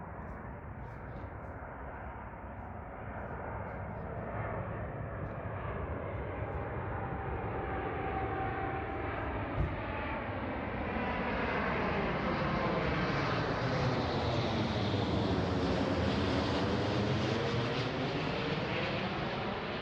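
Airliner on landing approach flying low overhead: its engine noise grows steadily louder, peaking near the end and just starting to ease off. A brief whine is heard partway through, and there is a single sharp click about halfway through.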